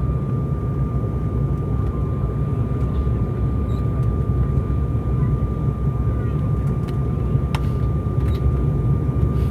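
Steady low cabin rumble of an Embraer 195 airliner in flight, its jet engines and the airflow heard from inside the cabin, with a thin steady whine running through it.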